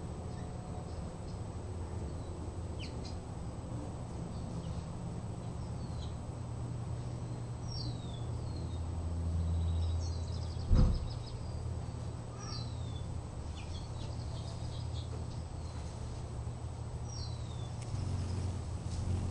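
Small birds giving short, high chirps that fall in pitch, about a dozen times, over a steady low hum. A single sharp knock sounds about eleven seconds in.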